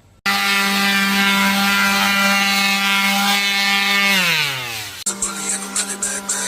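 A power tool's electric motor running at a steady whine, then winding down with a falling pitch after about four seconds as it is switched off. Background music with a beat comes in near the end.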